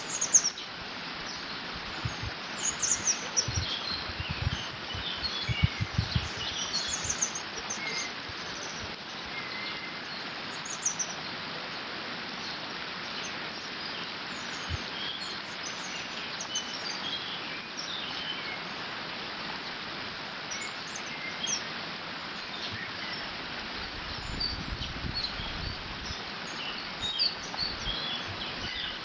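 Water rushing steadily through a beaver dam, with small birds chirping and singing over it, busiest in the first several seconds and again near the end. Wind gusts now and then add a low rumble.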